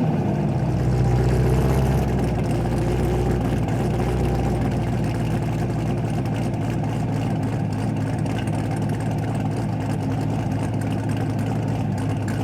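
Cammed Corvette C6 Z06's 7.0-litre LS7 V8, breathing through Kooks long-tube headers and a 3-inch catted X-pipe, idling steadily with a choppy note just after a rev has fallen away.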